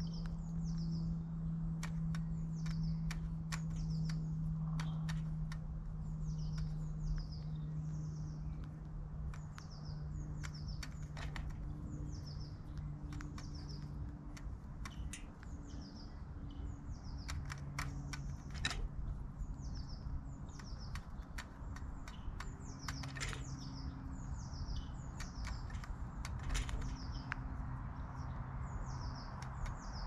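A bird calling over and over with short high chirps that drop in pitch, about one to two a second, among scattered sharp clicks, over a steady low hum.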